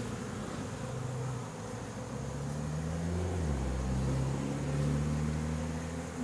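Honey bees buzzing around an open hive, the hum of several bees rising and falling in pitch as they fly close by.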